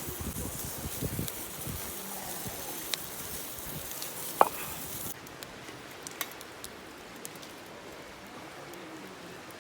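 Steak sizzling over a wood campfire, with sharp crackles and pops from the fire; the sizzling hiss drops away about halfway through, and a few crackles carry on.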